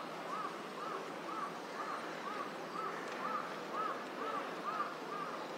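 A bird calling over and over: an even series of short rising-and-falling notes, about two a second, fading near the end, over a steady outdoor hush.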